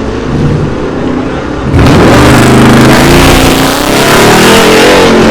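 Car engine revving, quieter at first, then much louder from about two seconds in, its pitch climbing and falling with the throttle.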